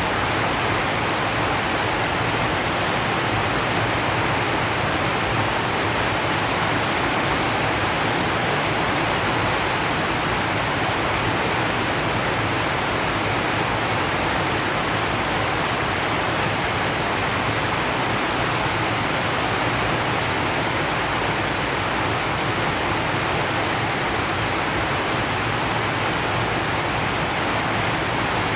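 Steady rain falling on a zinc sheet roof, an even hiss that never lets up.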